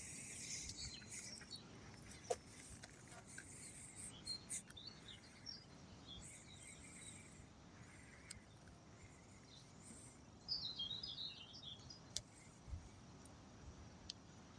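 Small birds chirping faintly and intermittently, with a brief flurry of twittering about ten seconds in.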